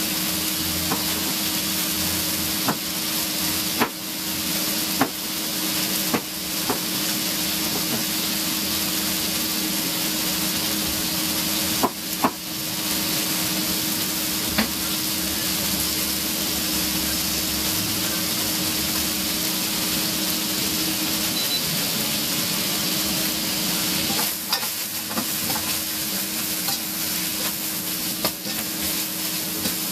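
Chicken fajita filling with corn sizzling steadily in a hot frying pan as it is stirred, with scattered sharp taps and scrapes of a utensil against the pan. A low steady hum runs underneath.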